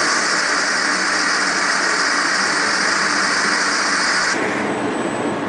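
Steady mechanical hiss of factory machinery. Its higher part cuts off suddenly about four seconds in.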